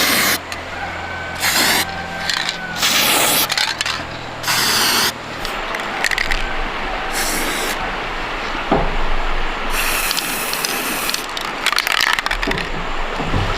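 Electric arc welding on an iron frame: the arc crackles in short bursts of under a second, several times over, with one longer run about ten seconds in. A low hum sits under the first five seconds.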